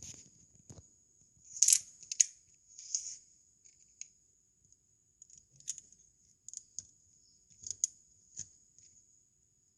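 Plastic Lego bricks being handled and pressed together: a string of short clicks and rattles, the loudest about two seconds in, over a faint steady high-pitched whine.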